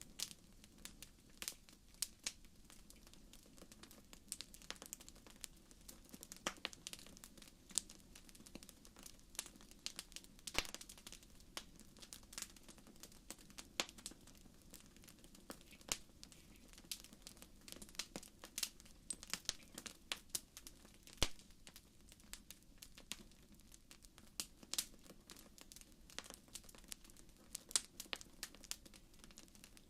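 Wood fire crackling in a fireplace: irregular sharp pops and snaps, several a second, over a faint steady low rumble.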